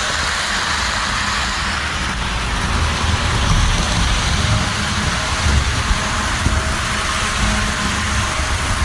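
Model steam locomotive running on the layout's track: a steady hiss and rumble with a faint constant whine.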